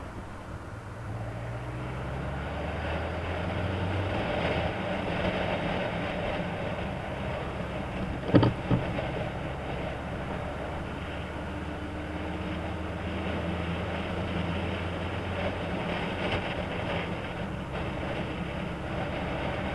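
Honda CB1000 Super Four's inline-four engine running under way, its pitch rising over the first few seconds and then holding steady. A sharp knock sounds about eight seconds in.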